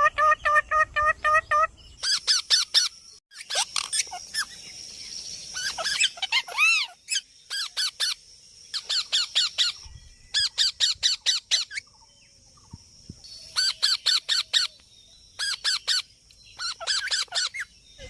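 A parrot calling in about ten short bursts, each a rapid run of harsh, evenly repeated squawks, with brief pauses between bursts.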